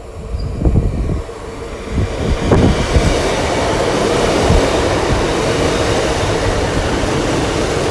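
Two coupled Class 150 Sprinter diesel multiple units passing close by, with a few wheel thumps over the rail joints in the first seconds, then a loud steady rumble and hiss as the coaches go by.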